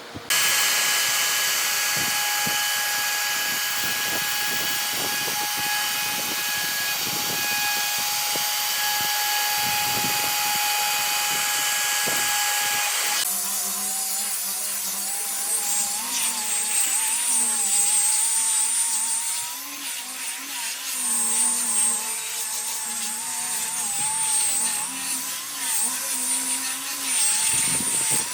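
Electric power tool running on wood: a steady whine with a high hiss for about thirteen seconds, then an abrupt change to a whine whose pitch wavers up and down as the tool is worked.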